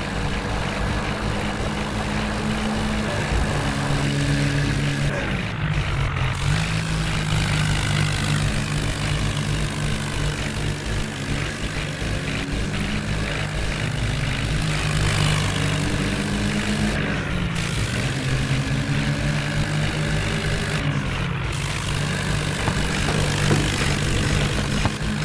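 Heavy diesel engine running steadily under load, its speed dipping and picking up again three times: a few seconds in, about two thirds through, and again soon after.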